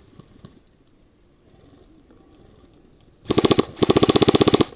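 An airsoft gun firing on full auto: a short burst about three seconds in, then a longer one, each a rapid run of evenly spaced, loud, sharp shots. Before that there is only faint rustling.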